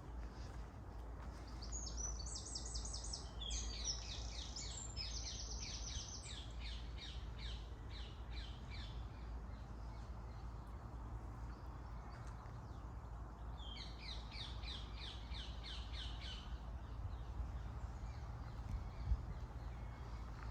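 Birds calling: a long bout of rapid, repeated harsh high notes lasting several seconds, then a shorter bout a few seconds later, over a low steady rumble.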